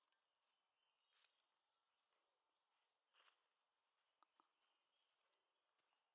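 Very faint outdoor ambience: a steady high-pitched insect drone, with a few soft clicks and rustles.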